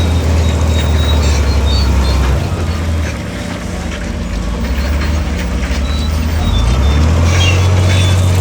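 Heavy diesel engine of earthmoving machinery running with a low, steady drone. The drone eases off about three seconds in and builds back up near the end, with a few short high squeaks over it.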